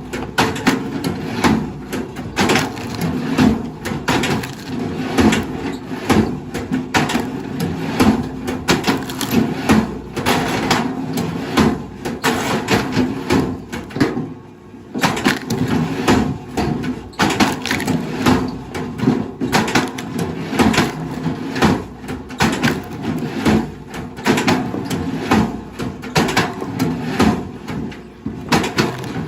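Wood cracking and splintering over and over under a machine, with the steady hum of an engine underneath and a brief lull about halfway.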